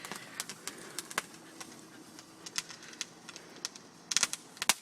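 Consumer fireworks crackling: irregular sharp pops, with a quick flurry of louder cracks near the end.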